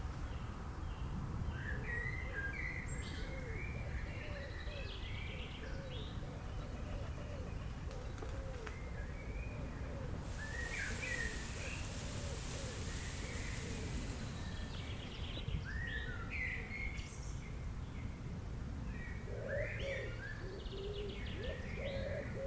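Nature ambience of several birds chirping and calling, with runs of lower repeated calls, over a steady low background rumble. A hiss rises and falls away between about ten and fifteen seconds in.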